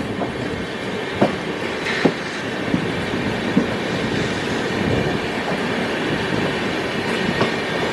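Passenger train running along the track: a steady rumble of the coach, with a few sharp clacks of the wheels over rail joints.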